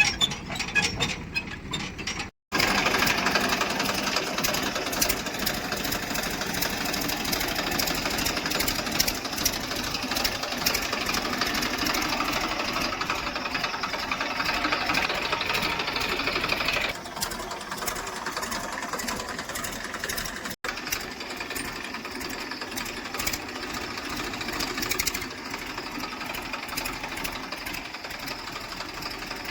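Diesel machinery running with a steady, clattering knock, opening with rapid clicking. The sound cuts out for a moment about two and a half seconds in and again after about twenty seconds, and it gets a little quieter after about seventeen seconds.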